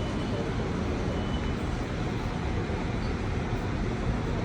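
Steady ambient rumble of a busy transport station, an even wash of low noise with faint brief tones above it.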